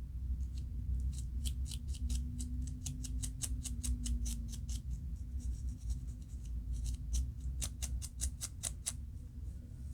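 Rapid scratching strokes at the scalp to loosen dandruff flakes, about five strokes a second, in two runs with a pause in between, over a steady low hum.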